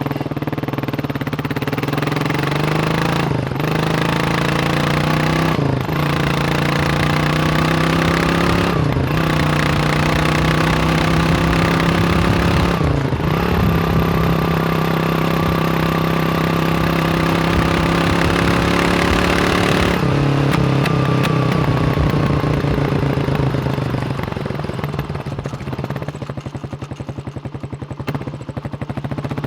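Kawasaki KLR 600's single-cylinder four-stroke engine under way, pulling through the gears. Four quick upshifts come in the first half, each a brief gap in the sound, followed by steady cruising. About two-thirds through, the throttle is rolled off and the engine runs lower and quieter, then picks up again near the end.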